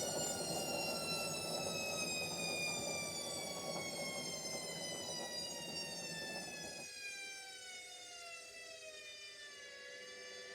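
Washing machine drum slowing down at the end of a spin cycle: a whine falling steadily in pitch, over a rushing noise that cuts off suddenly about two-thirds of the way through, leaving the whine to sink further and level off near the end.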